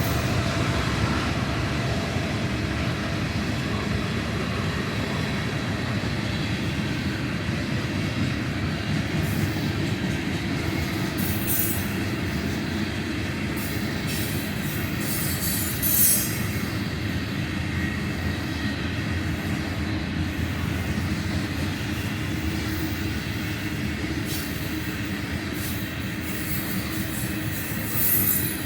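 Loaded grain train's cars rolling past with a steady rumble of wheels on rail. Brief high-pitched wheel squeals break through several times, loudest about sixteen seconds in and again just before the end.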